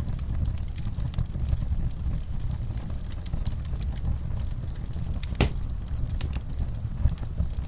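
Wood fire burning in a fireplace: a steady low rumble of flames with frequent small crackles, and one louder pop about five and a half seconds in.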